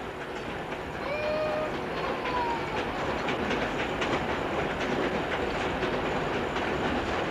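Railway passenger coach riding along the track, heard from inside the car: a steady rolling rumble with a run of wheel clicks over rail joints in the middle.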